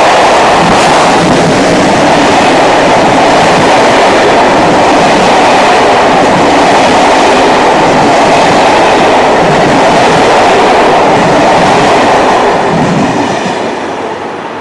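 Electric locomotive-hauled passenger train passing close by: a loud, steady rush and rumble of coaches on the rails, dying away near the end as the last coaches go by.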